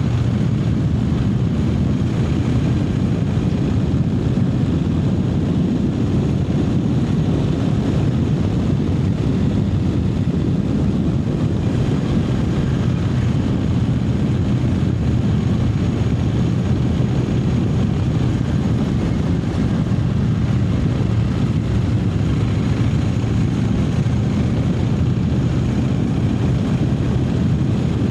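Triumph Speed Twin 900's parallel-twin engine running at a steady speed while riding, the engine note holding even throughout.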